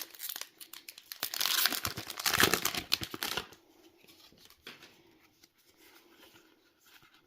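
Foil booster-pack wrapper crinkling and being torn open, a dense rustle for about the first three and a half seconds, then only faint handling rustles.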